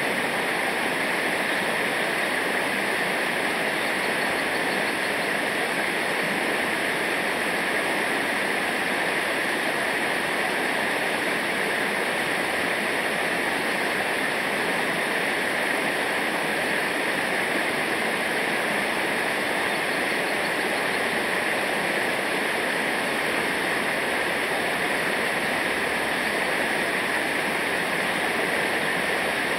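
River rapids or a waterfall rushing: a steady, unbroken water noise.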